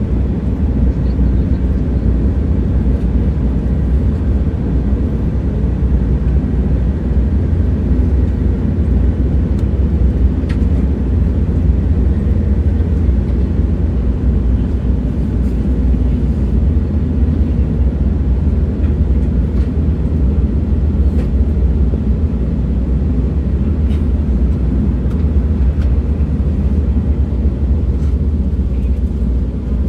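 Moving train running with a steady, deep rumble that never lets up, with a few faint ticks now and then.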